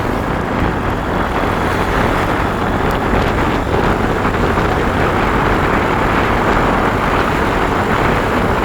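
Motorbike riding along: steady engine noise mixed with rushing wind.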